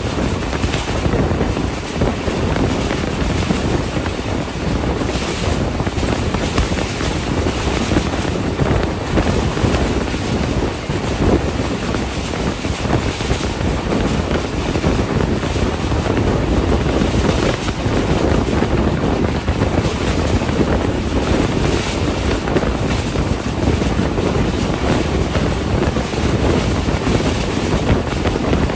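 Passenger train running at speed, heard at an open coach window: a steady rush of wind on the microphone over the rumble of the wheels on the track.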